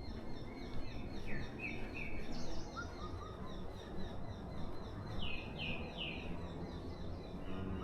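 Forest birds chirping at dawn: scattered short notes, with a quick run of three falling chirps about five seconds in and a faint rapid high ticking throughout. Under it runs a steady low rumble of distant trains and road traffic.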